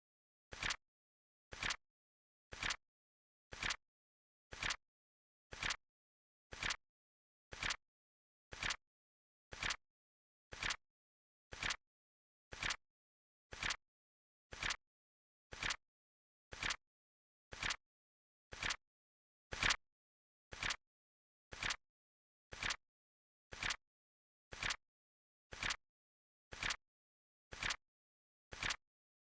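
Flip clock sound effect: short, sharp flip clicks at a steady one per second, with one click about two-thirds of the way through a little louder than the rest.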